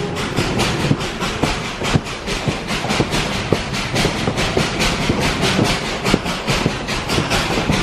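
Moving passenger train heard from on board: wheels clattering on the rails in many quick, uneven clacks over a steady rushing rumble.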